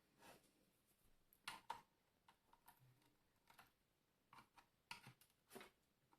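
Faint, scattered clicks and light taps, about a dozen, the loudest pair about one and a half seconds in, from the plastic parts of a steam iron being handled during disassembly.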